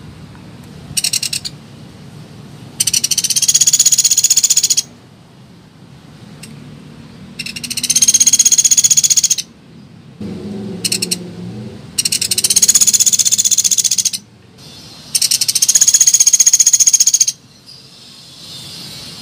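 Pelatuk beras woodpecker giving rapid, high-pitched rattling trills, each about two seconds long, repeated about every four seconds, with two short bursts between.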